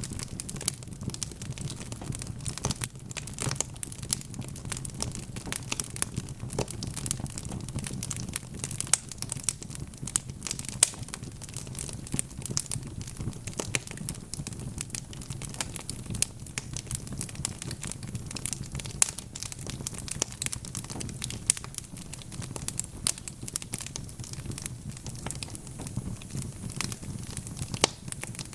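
Wood fire burning in a fireplace: logs crackling and popping in quick, irregular clicks over a steady low rumble of flame.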